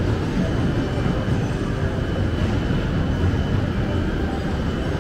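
285 series Sunrise Express electric sleeper train rolling slowly alongside a station platform, a steady low rumble of wheels and running gear.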